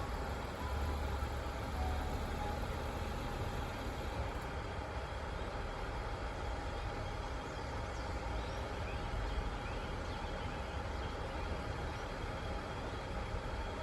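Steady low rumble and hiss of trains standing at a railway station platform, with no distinct events.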